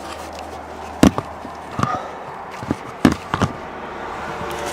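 Several sharp knocks and clicks, spaced irregularly over a few seconds, as hydraulic-style quick-connect fittings on heater hoses are handled and uncoupled, over a low steady hum.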